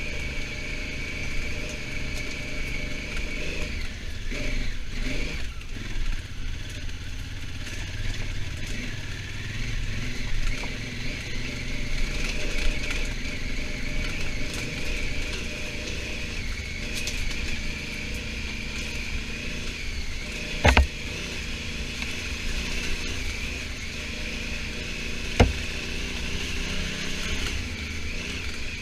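Honda Africa Twin motorcycle running on the road, with a steady engine and road noise throughout. Two sharp knocks come about 21 and 25 seconds in.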